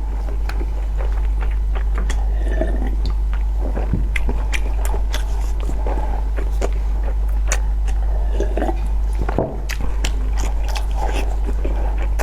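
A person eating close to the microphone: chewing with irregular wet mouth clicks and smacks, over a steady low hum.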